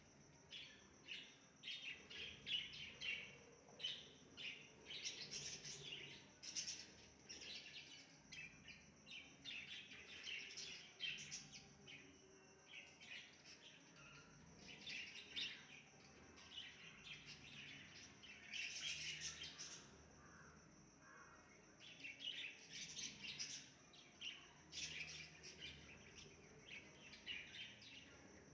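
Faint birdsong: several small birds chirping and calling in quick repeated phrases, over a steady high-pitched whine.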